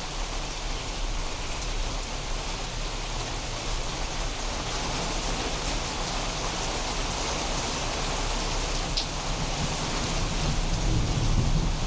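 Steady rainfall hissing down, with a low rumble building over the last couple of seconds.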